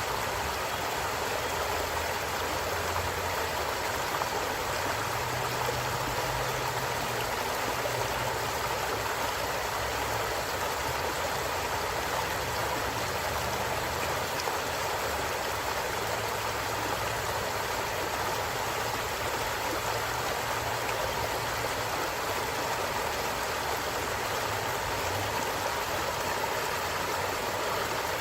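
Stream running steadily, an even rushing of flowing water.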